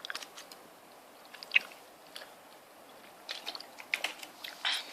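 Mouth sounds close to the microphone: scattered soft wet clicks and smacks of eating, with a louder one about one and a half seconds in and a cluster near the end.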